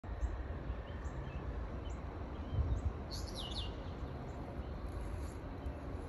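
Birds chirping: a short high note repeated about once a second, and a louder quick run of falling notes about three seconds in, over a steady low rumble.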